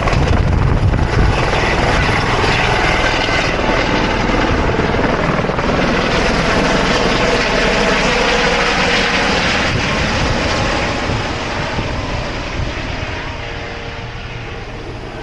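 Helicopter rotor and turbine running loud, with heavy low rotor thump at first, then fading steadily over the last few seconds as the helicopter takes off and moves away.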